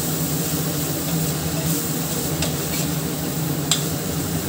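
Onion-tomato masala with ground spices sizzling in hot oil in a stainless steel kadai while a spoon stirs it round the pan, with a couple of sharp clicks of the spoon against the steel.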